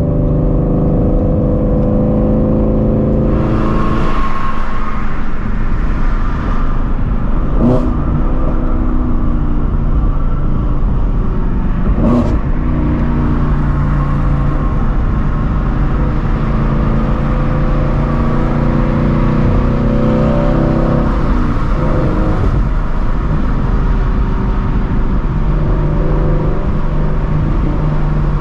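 The straight-piped 5.2-litre flat-plane-crank V8 of a 2016 Shelby GT350 with long-tube headers, running under way. It swells into a harder pull about three seconds in, then settles back to a steady drone. Two brief sharp knocks come about eight and twelve seconds in.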